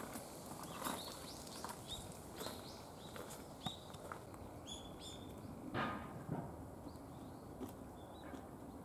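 Small birds chirping, short high calls scattered irregularly throughout, over a quiet outdoor background, with one louder brief sound about six seconds in.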